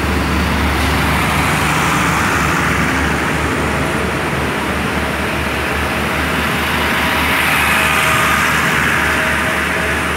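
Passenger train carriages rolling past close by: a steady rumble and rush of steel wheels on the rails, loudest about eight seconds in and easing off as the last carriage goes by.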